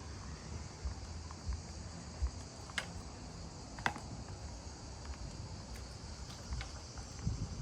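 Insects chirring steadily in a high-pitched drone, with soft low thumps of footsteps and two sharp clicks near the middle.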